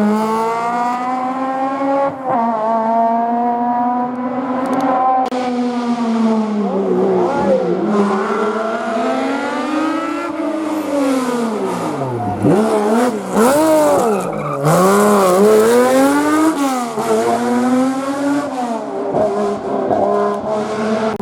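Historic rally car engine revving hard through a hairpin, its pitch repeatedly climbing and falling with the throttle and gear changes, dropping to its lowest about twelve seconds in before climbing again as it accelerates away.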